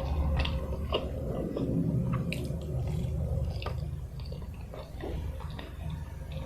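Close-miked eating sounds: wet chewing and mouth smacks with scattered small clicks, over a low steady hum.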